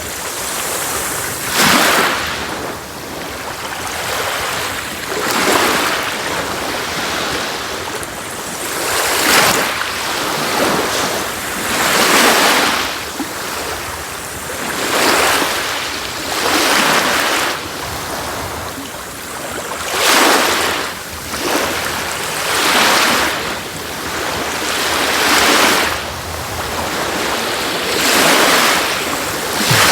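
Sea waves breaking and washing up a beach, each wave a rising and falling surge of surf coming about every two to four seconds.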